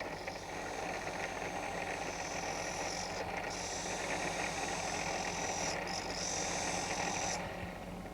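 RX Companion disc honing machine running with a steel instrument held against its spinning honing disc and rocked from heel to toe: a steady grinding with a high scraping edge that breaks off briefly twice and stops near the end.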